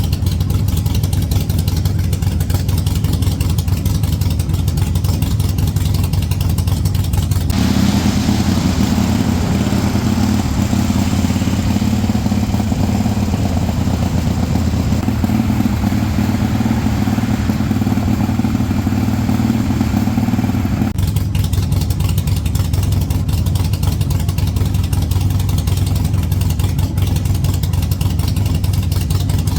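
Harley-Davidson Sportster 1200's air-cooled V-twin engine running steadily. From about 7 seconds in, it runs harder with a higher note and a rushing hiss, then settles back to the lower, steadier sound about 21 seconds in.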